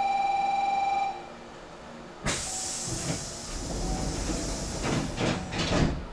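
A steady electronic tone stops about a second in. Then, a second later, the Hankyu 6300-series train's compressed air lets go in a sudden loud hiss, with knocks and a low rumble from the car, and the hiss dies away near the end.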